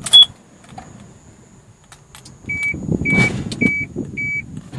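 Dashboard warning chime of a 1999 GMC TopKick truck beeping four times at one steady pitch, about half a second apart, as the ignition key is turned on, over a low rumble in the cab. A loud short high chirp comes right at the start.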